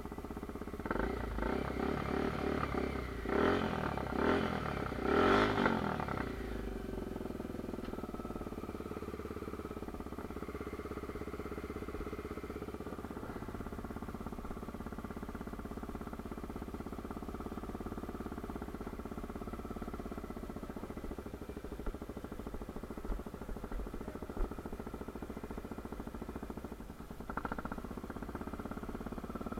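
Honda Tornado 250 single-cylinder four-stroke motorcycle engine revved several times in the first few seconds, then settling to a steady idle.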